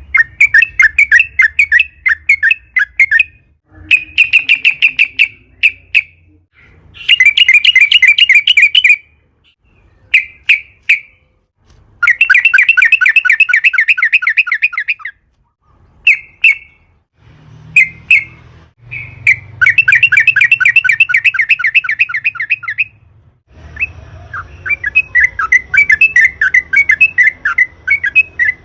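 Yellow-vented bulbul (trucukan) singing loud, chattering phrases of rapid repeated notes. Each burst lasts one to three seconds and several follow one another with short pauses, with a few single call notes in between.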